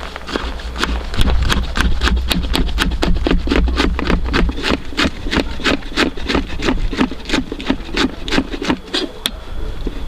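Knife chopping vegetables on a wooden board: quick, even strokes, about four to five a second, over a steady low wind rumble.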